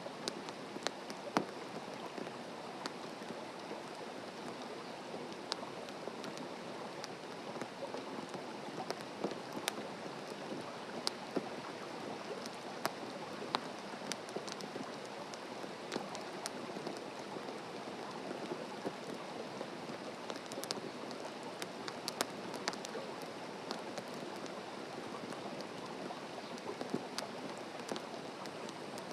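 Wood campfire burning: a steady hiss of the fire with frequent sharp crackles and pops at irregular moments.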